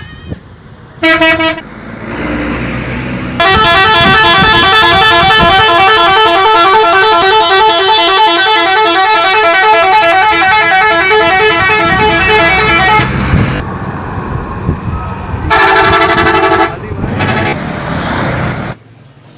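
Bus multi-tone musical horn: a short honk about a second in, then a long, loud tune of quickly alternating notes for about ten seconds, and one more short burst near the end, over the rumble of the engine.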